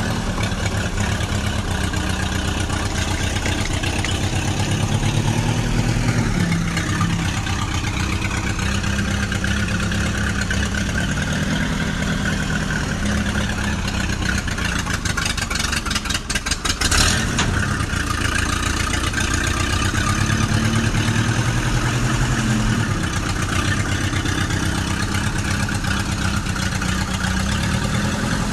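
Tractor engine idling steadily, its pitch shifting up and down a few times. About seventeen seconds in there is a quick run of rapid ticking and a short clatter.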